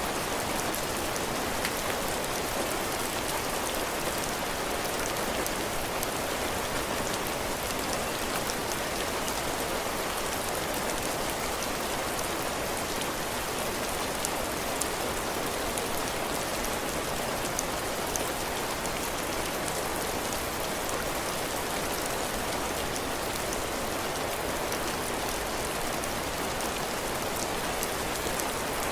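Heavy rain falling steadily on a cabin porch, a continuous hiss of rain with countless fine drop ticks on the roof and floor.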